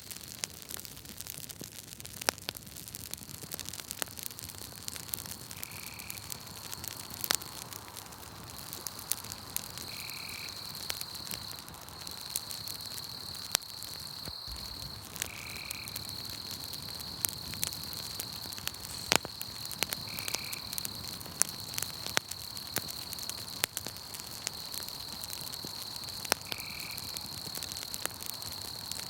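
Campfire crackling with scattered sharp pops, over a steady high insect chirring from crickets, and a short call repeating about every five seconds.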